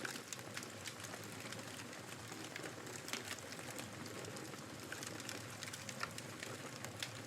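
Wood fire crackling with irregular sharp pops, over a steady rush of blizzard wind.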